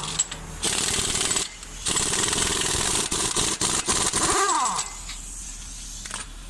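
Impact wrench hammering in two bursts, a short one and then a longer one of about three seconds, on the bolts of a 2007 Cadillac Escalade's front wheel hub and bearing assembly.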